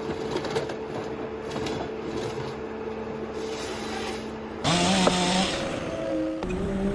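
A forestry harvester machine running steadily with a constant hum. About two-thirds of the way through, the sound switches abruptly to a louder one whose pitch jumps in steps.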